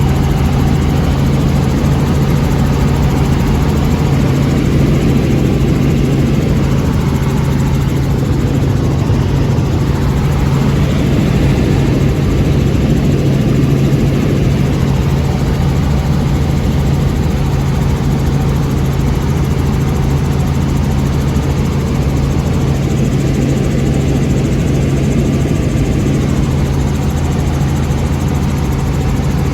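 Helicopter running steadily: a loud, continuous drone with a constant low hum under a wide rushing noise.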